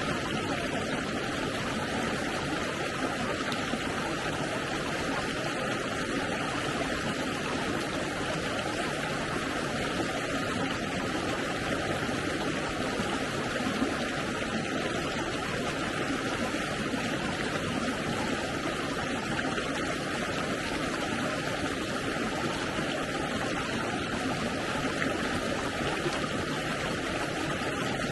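Stream water flowing steadily, a continuous even rush with no breaks.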